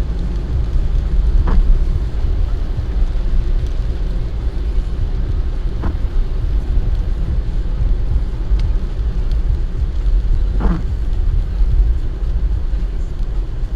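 Steady low rumble of a car driving on a rain-soaked road, heard from inside the vehicle. A brief swish cuts through it about every four to five seconds.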